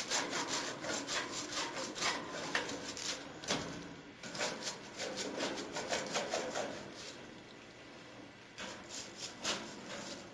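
Stiff scrub brush scrubbing a bird cage's bottom grating in quick back-and-forth strokes, pausing briefly about seven seconds in before resuming.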